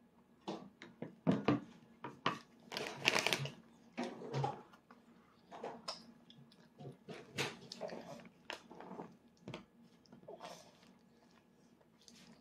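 A toddler's eating noises: chewing and mouth sounds, coming as short, irregular sounds.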